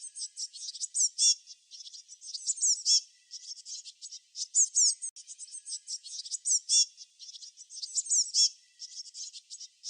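Small songbirds chirping: quick, high notes that slide downward, coming in dense bursts about every two seconds.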